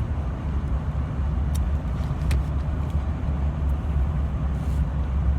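Steady low rumble of road and engine noise inside a moving car's cabin, with a couple of faint clicks.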